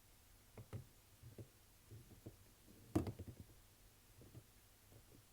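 Soft, scattered taps and clicks of soap bars and their packaging being handled, with one sharper knock about three seconds in.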